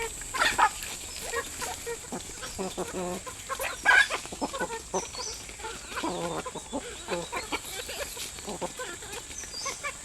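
A flock of chickens clucking as they feed on scattered paddy, with many short calls overlapping throughout and a louder call about four seconds in. A thin, steady high-pitched tone runs underneath.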